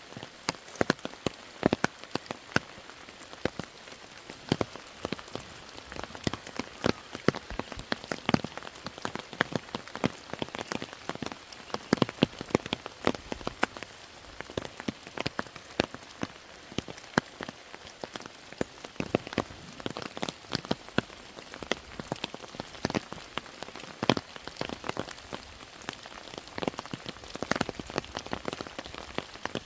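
Rain falling steadily: a soft hiss with many sharp, irregular drop taps, several a second.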